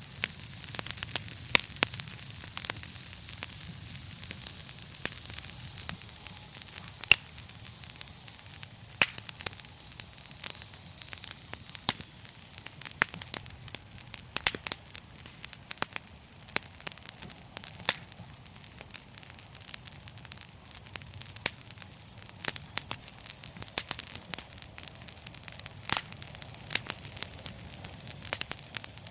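Wood fire in a fireplace crackling, with many sharp irregular pops and snaps over a steady hiss and a low rumble of the flames.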